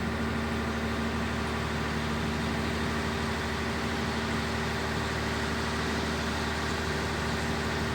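Tour boat's engine running steadily: an even, unchanging drone with a constant hum.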